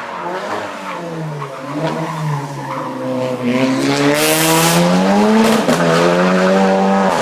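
Racing car engine accelerating hard, growing louder as it nears. Its pitch climbs and drops sharply at a gear change a little after five seconds in.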